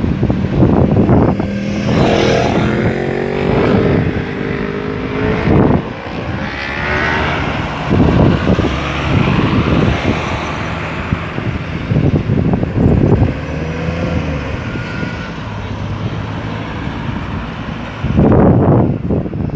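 Road traffic on a roundabout: vehicles passing and pulling away, one engine rising in pitch a few seconds in. Wind buffets the microphone near the end.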